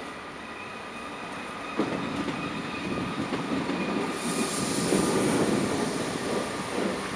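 Train wheels rolling over the station's tracks and points, with faint high steady tones of wheel squeal. A sharp clank comes about two seconds in, after which the rolling grows louder, with a high hiss a little past the middle.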